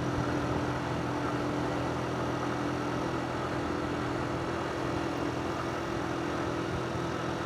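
A 125cc motorcycle engine running at steady revs, a constant hum with an even hiss of wind and road noise over it.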